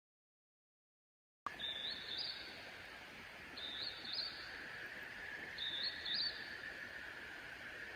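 Digital silence at first, then a bird sings the same short chirping phrase three times, about two seconds apart, over a steady outdoor hiss.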